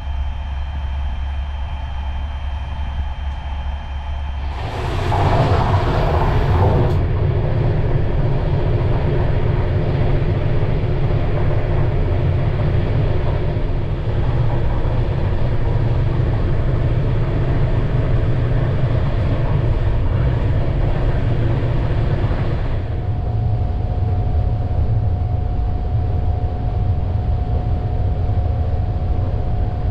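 Passenger train running at speed, heard from inside the carriages: a steady rumble of wheels on the rails with steady hums running through it. About four and a half seconds in, it grows louder and sharper, which fits passing the end door between cars, where the track is exposed. Just past twenty seconds in, it eases somewhat and a steady whine comes in.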